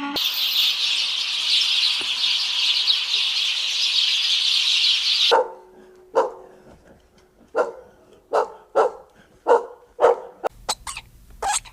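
A loud, steady hiss for about five seconds that cuts off suddenly, then a run of short animal barks, roughly one a second.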